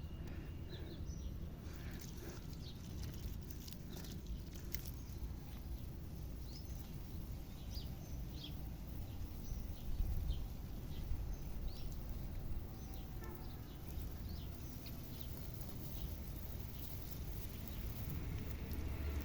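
Small birds chirping in short, scattered calls over a steady low rumble of outdoor background.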